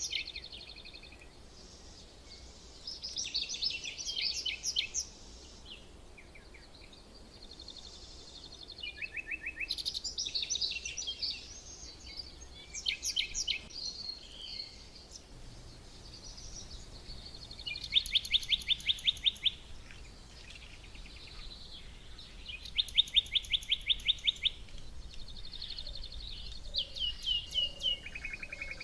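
Songbirds singing in short phrases every few seconds, several of them fast high trills, over a faint steady background hum.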